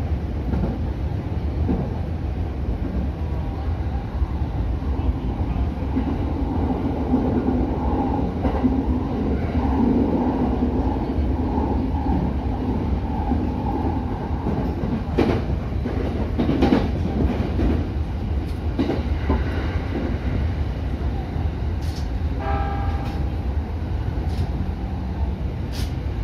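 An electric commuter train running on the rails, heard from the front of the train: a steady running rumble and hum. In the second half come several sharp clacks as the wheels pass over rail joints and points.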